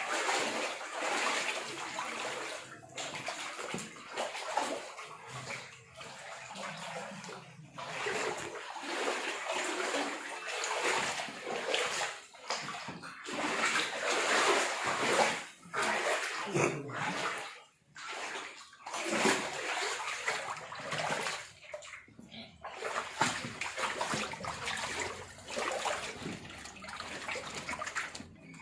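Rainwater running and splashing, swelling and fading in uneven surges with a few brief breaks.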